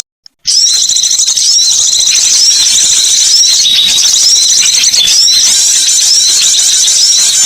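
Small songbirds twittering and chirping continuously in high-pitched, rapidly repeated calls from a bird-lure recording, after a brief silent gap at the very start.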